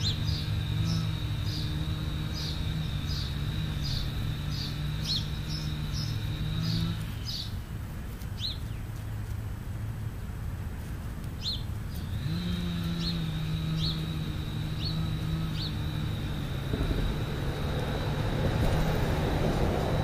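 A bird chirping repeatedly, about two short chirps a second over a steady high tone, pausing for a few seconds midway. A low motor-like hum comes and goes underneath.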